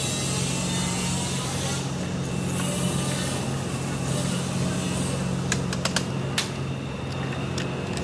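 A vehicle engine running steadily at idle as a low hum, with a few sharp clicks about five and a half to six and a half seconds in.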